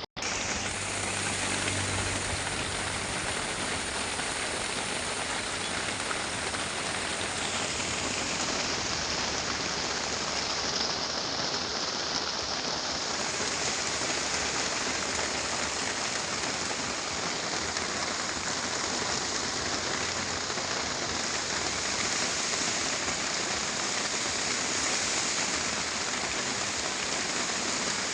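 Heavy rain falling steadily, heard from a truck driving through it: a dense, even hiss of downpour.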